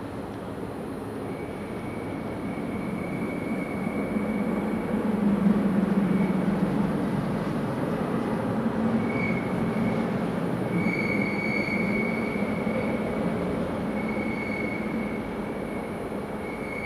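A large vehicle passes close by, building to its loudest about five seconds in and then slowly fading. A high, thin squeal comes and goes over it, strongest in the second half.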